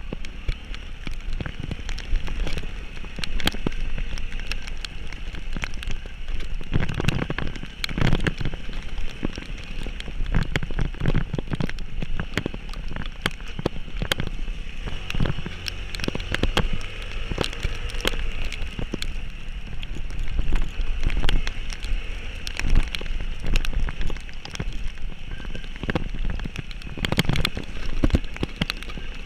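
Heavy rain pattering, with many irregular sharp knocks and crackles over a steady low rumble from a moving vehicle.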